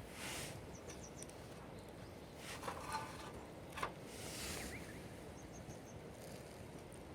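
Quiet outdoor ambience: a steady low hiss with a few brief rustles and clicks, and faint high-pitched chirps twice.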